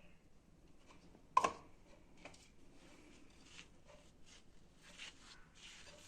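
Kitchen handling sounds: one sharp knock about a second and a half in, then scattered soft clicks and short rustling scrapes.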